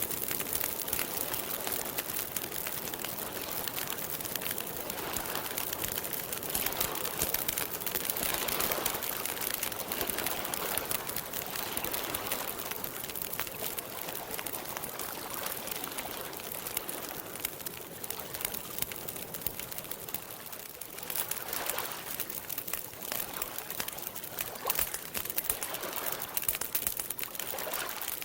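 Campfire crackling with frequent small snaps and pops, over water gently lapping in slow swells.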